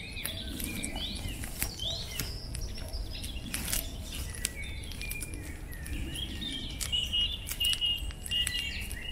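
Songbirds singing: a series of short curved chirps over the first couple of seconds, then a steady high trill from about six seconds in. Scattered small clicks and crackles run underneath.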